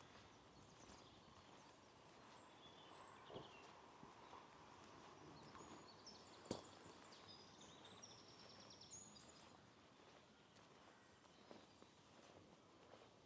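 Faint birdsong: small birds chirping high, in short scattered calls. A few soft knocks, the sharpest about six and a half seconds in.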